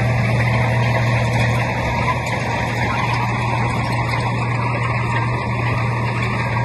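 Diesel engine of heavy earthmoving machinery running steadily, with an even low drone.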